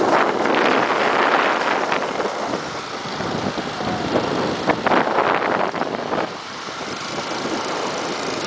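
Motorcycles on the move, with wind buffeting the microphone as a loud rushing noise that swells twice, near the start and about halfway through, then settles lower.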